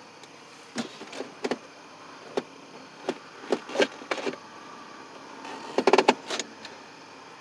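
A series of irregular sharp clicks and knocks, then a quick rattling run of clicks about six seconds in.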